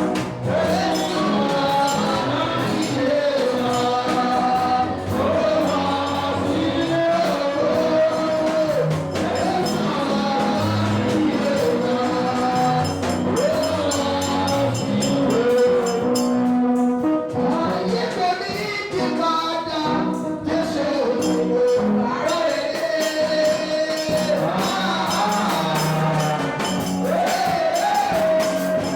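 Congregation and choir singing a gospel praise song together, with tambourine and other hand percussion keeping a steady beat.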